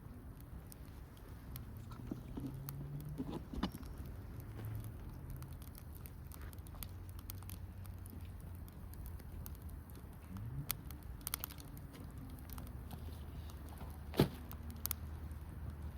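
Wood campfire crackling, with scattered small pops and one sharper snap near the end, over a low steady rumble.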